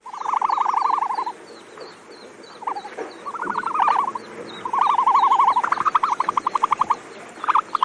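Bird calls: loud bouts of fast, pulsing trills about a second long, five or six of them with short gaps, over faint high chirps that repeat steadily behind.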